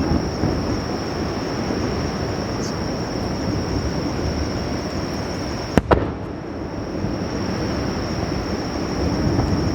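Fireworks shells detonating on the sea surface: a continuous rolling rumble of booms and their echoes, with two sharp cracks close together about six seconds in.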